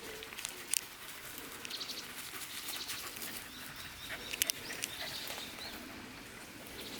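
Small songbirds chirping in woodland, with a few sharp clicks and crunches of footsteps on a wet trail, the loudest about four and a half seconds in.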